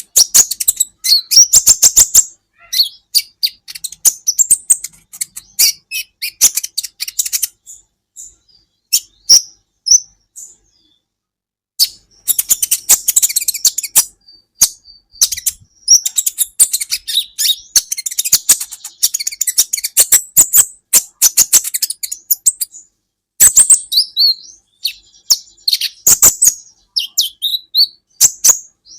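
Kolibri ninja sunbird singing: rapid, high-pitched twittering made of quick chirps and clicky notes, delivered in long excited bursts with brief pauses, one about a third of the way in and another shorter one a little past two-thirds.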